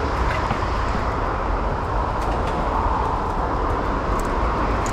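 Mountain bike rolling over a rough dirt trail: steady tyre noise and wind buffeting the microphone, with a few small clicks and rattles.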